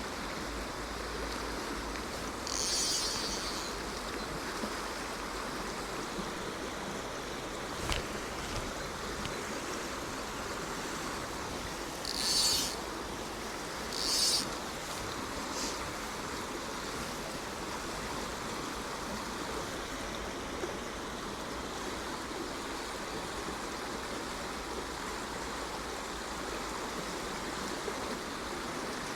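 Shallow rocky stream rushing steadily, with three brief high-pitched hisses and a single sharp knock about eight seconds in.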